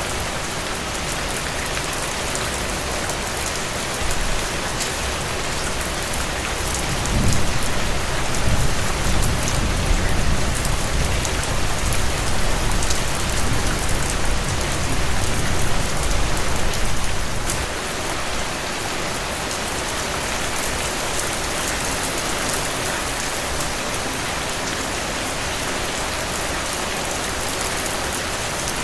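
Steady rain falling, an even hiss of drops. A deeper low rumble swells about a quarter of the way in and dies away after about ten seconds.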